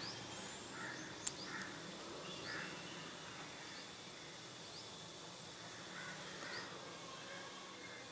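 Faint outdoor background: small birds chirp now and then over a steady high whine, with one sharp click about a second in.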